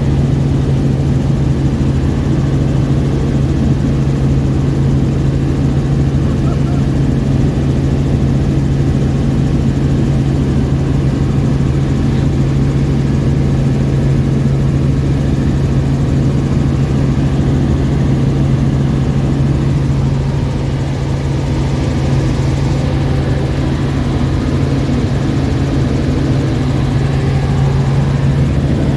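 Helicopter engine and rotor running in flight: a steady drone with a strong constant low hum.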